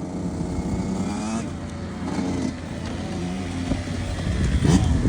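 KTM dirt bike engine revving up and down in several short pulls over rough ground. A loud knock comes near the end.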